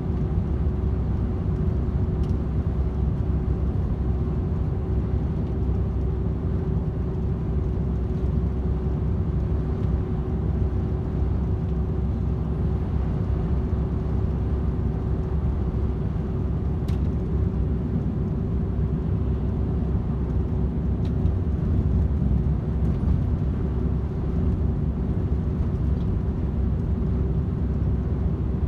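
DAF XF 510 truck with its PACCAR MX-13 six-cylinder diesel cruising at motorway speed: a steady low drone of engine and tyre noise with a constant hum over it.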